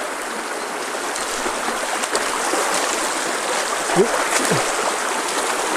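Flowing stream water rushing steadily over rocks and pebbles. A brief faint vocal sound cuts in about four seconds in.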